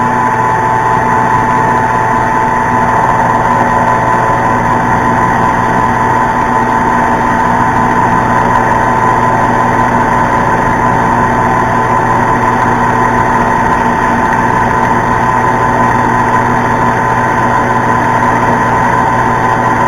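Metal lathe running steadily with a constant hum and whine while a tool plunge-cuts a brass fitting.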